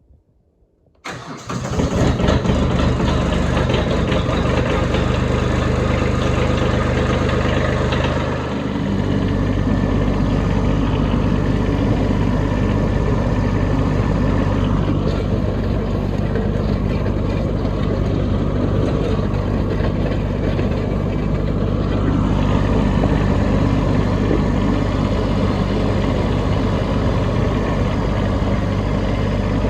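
Kubota B2601 compact tractor's three-cylinder diesel engine cranking and catching about a second in, on a cold start in snowy weather, then running steadily. About eight seconds in its engine speed shifts briefly, and then it runs on evenly.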